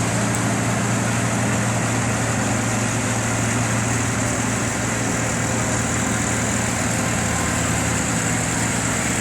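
Tractor engine idling with a steady, even hum.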